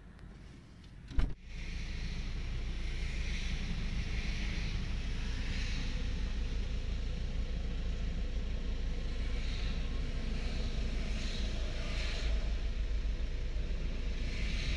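A single sharp knock about a second in, then a car engine idling steadily, heard from inside the cabin with the hood up. The car has broken down on the road, and the owners suspect something is wrong with the engine.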